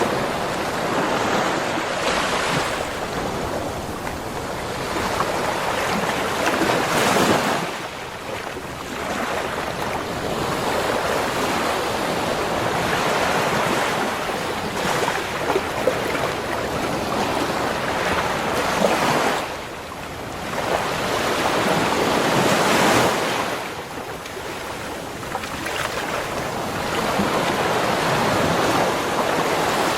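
Ocean waves breaking and washing up a beach, a steady surf that swells and eases every few seconds, with wind on the microphone.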